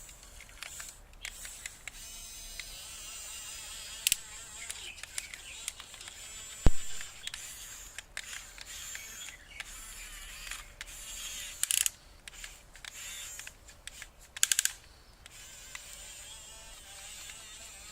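Small electric motors of a Huina 1550 RC dump truck whining in short buzzing bursts over a steady hiss, with one sharp click about a third of the way in.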